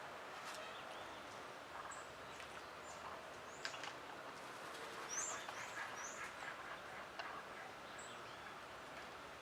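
Birds chirping: scattered short, high chirps, busiest about five to six seconds in, over a steady outdoor background hiss.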